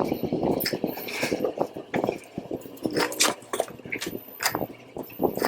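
Irregular clicks, taps and rustling of hands handling wires and small plastic parts.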